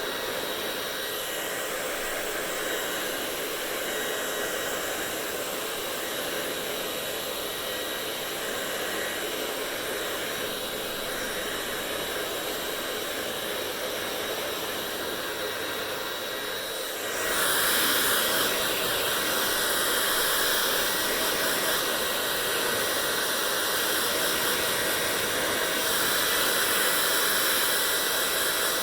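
Hair dryer running steadily: an even rush of blown air with a faint motor whine. About 17 seconds in it turns louder and brighter, and stays that way.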